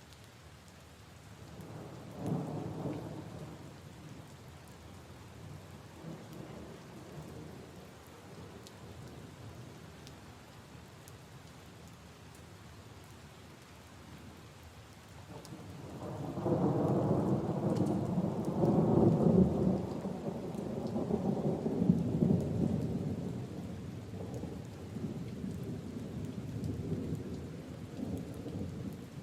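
Steady rain falling on leaves and puddles, with scattered drop ticks. A short roll of thunder comes about two seconds in, and a longer, louder rumble of thunder starts a little past halfway and slowly dies away.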